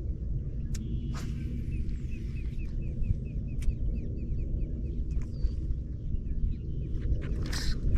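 A marsh bird calling a rapid run of short, repeated chirps, about four a second, for a few seconds in the first half, over a steady low rumble. A few sharp clicks and a short rustle come near the end.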